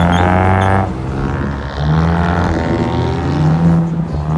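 Car engine revved three times, each rev held briefly at a steady high pitch: at the start, about two seconds in, and from about three seconds in.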